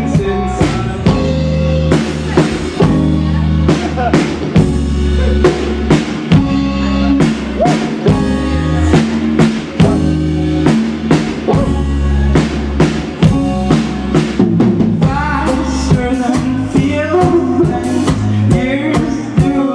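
Live rock band playing an instrumental passage, with a drum kit beating steadily over bass and guitar.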